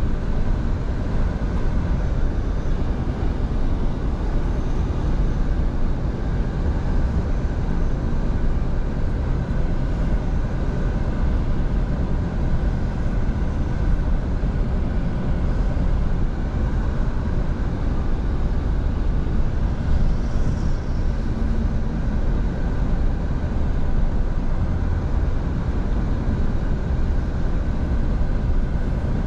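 Scania V8 diesel truck engine running steadily at cruise, with a steady low rumble and road noise from the moving truck.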